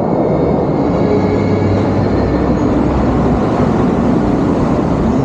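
Bellagio fountain's water jets and falling spray making a dense, steady rushing roar.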